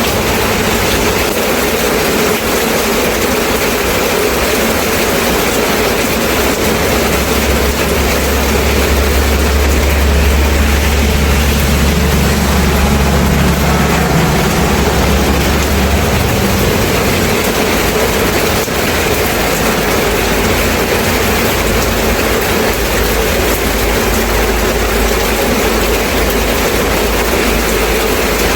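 Steady rain falling, a dense even hiss. A low rumble joins it about six seconds in and fades out around sixteen seconds.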